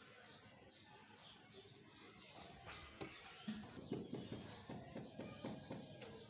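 Faint birds chirping, with a run of irregular sharp clicks and snaps from about halfway through.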